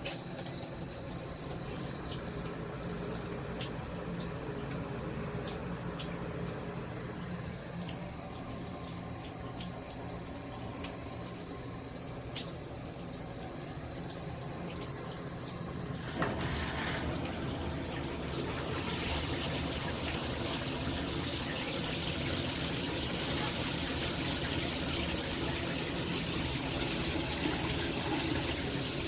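Water spraying steadily from a Hibbent all-metal rain shower head/handheld combo. A click comes about sixteen seconds in, and from a few seconds later the spray grows louder and hissier.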